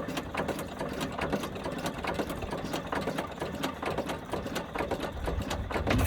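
1908 International Harvester 'Famous' 4 hp single-cylinder stationary engine running, a fast, even mechanical clatter of clicks over a low rumble.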